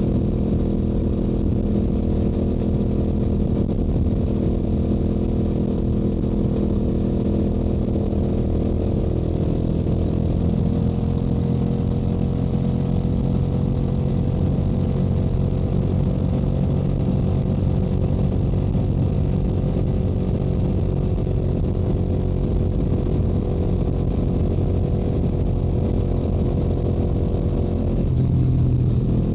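Stock Yamaha YZF-R7 689 cc parallel-twin engine and exhaust at highway cruise, a steady engine note whose pitch rises slightly partway through. Near the end the note changes and is briefly louder.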